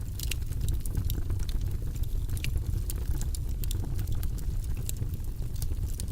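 Wood fire burning in a fireplace: a steady low roar of the flames with frequent sharp crackles and pops at irregular intervals.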